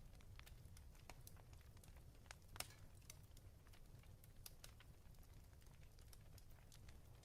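Faint crackling fireplace: irregular small pops and snaps over a low steady rumble, with one sharper pop a little before the middle.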